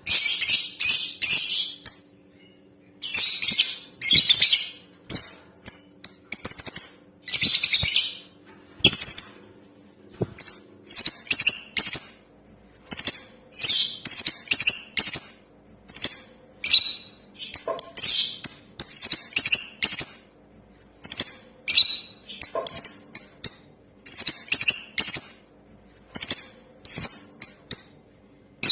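Lovebird calling: rapid, harsh, high-pitched chattering chirps in short bursts with brief pauses between them. It is a female lovebird's call used as a lure to set males singing.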